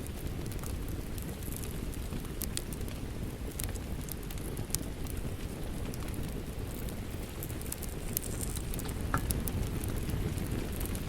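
Wood fire crackling in a fireplace, with scattered sharp pops, over steady rain.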